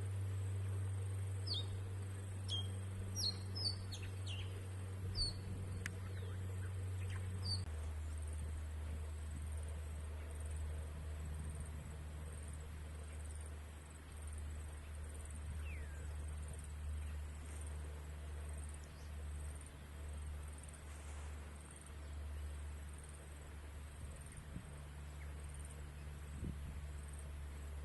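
Outdoor ambience with birds chirping: short, falling chirps for the first several seconds, then only a few. A faint, very high chirp repeats about once a second throughout, over a steady low hum that drops slightly in pitch about eight seconds in.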